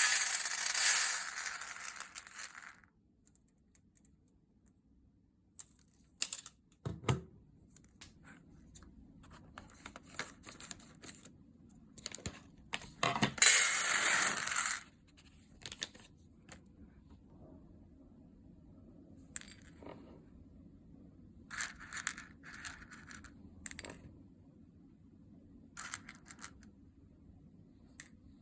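Coffee beans rattling against each other and a hard surface: two loud bursts of rattling, near the start and about halfway through, with scattered light clicks of single beans in between and after.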